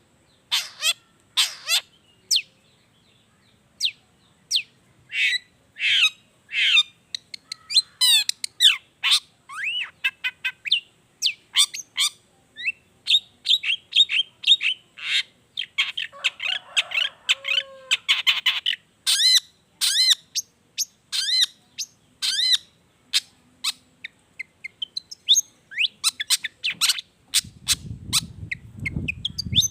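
Long-tailed shrike (cendet) singing a fast, varied string of short chirps, whistled sweeps and harsh notes, a medley of other birds' calls that it mimics. A low rumble comes in near the end.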